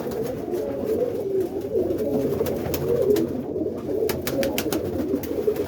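Several roller pigeons cooing together, a steady overlapping warble of coos, with a run of short sharp clicks about four to five seconds in.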